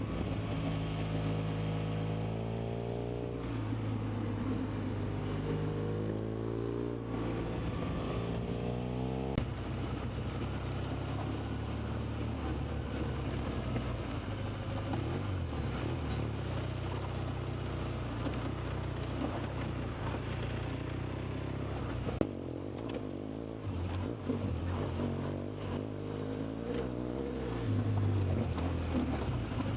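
An engine running under changing load, its pitch rising and falling for the first nine seconds or so, then settling into a steadier rumble mixed with rushing noise.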